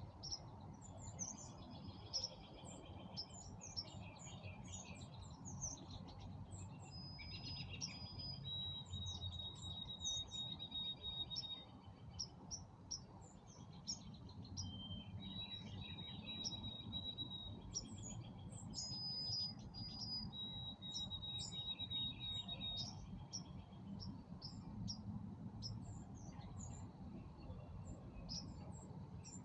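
Several birds singing in a dusk chorus of short chirps and trills. Three long, level whistled notes of two to three seconds each come through it, over a steady low background rumble.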